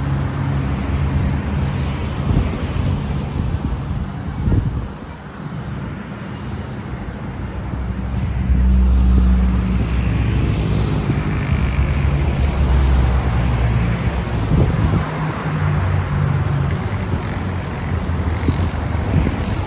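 Street traffic: motor vehicle engines running close by as vehicles pass, with a low steady engine hum that grows louder about eight seconds in.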